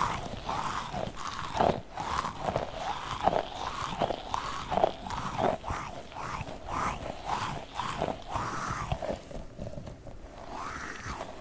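A tiny octopus toy being squeezed and handled in quick repeated strokes, about two a second, with a short lull near the end.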